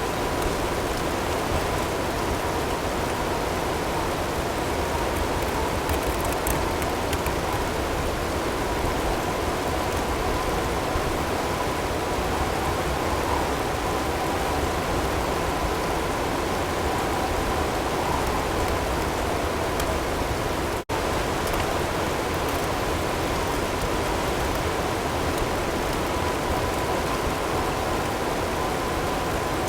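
Steady snowstorm ambience of wind and hail, an even noise, with faint steady tones near 1 kHz blended in underneath. The sound drops out for an instant about 21 seconds in.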